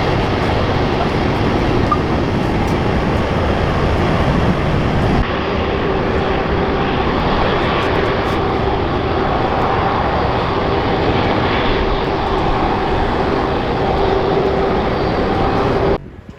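A jet airliner's engines running loud and steady, with a droning tone inside the noise. The sound cuts off suddenly near the end.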